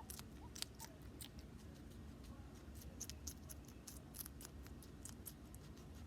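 Irregular crisp clicks and crunches, several a second, of red pepper being bitten and chewed.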